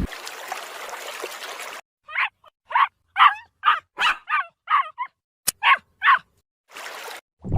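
A dog barking: a run of about ten short, high yaps, roughly two a second, after a couple of seconds of hiss.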